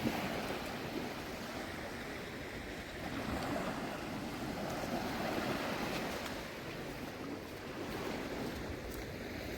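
Shallow sea water washing and lapping in gentle swells every couple of seconds, with a low rumble of wind on the microphone.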